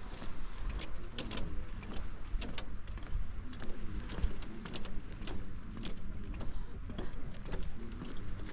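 Seaside ambience: sea water lapping and splashing with irregular sharp ticks, several a second, over a steady low wind rumble on the microphone.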